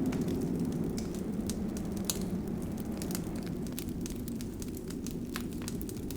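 Wood fire crackling: many small, sharp, irregular pops and snaps over a steady low noise from the burning fire.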